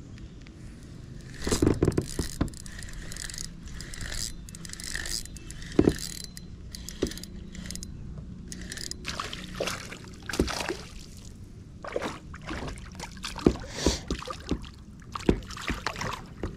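Irregular knocks, clicks and scrapes of gear handled on a fishing kayak, with the sharpest knocks about two seconds in, near six seconds, and several more between ten and fifteen seconds.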